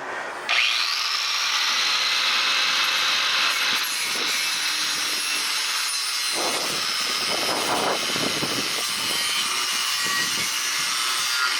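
Angle grinder spinning up about half a second in with a rising whine, then running against steel sheet or weld with a steady, harsh, high grinding noise.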